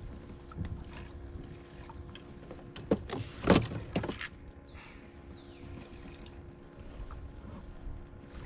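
Sounds of a fishing boat on a creek: a faint steady hum, with a short cluster of splashing and knocking about three seconds in.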